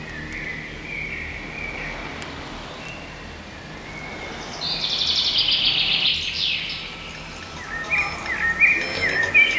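Birds chirping over a low steady rumble, with a loud buzzing trill about halfway through and quick repeated chirps near the end.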